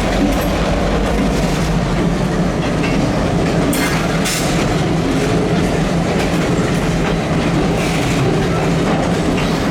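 Freight train moving slowly: diesel locomotive engines running steadily, with wheels clicking over the rail joints. A couple of brief high-pitched bursts come about four seconds in.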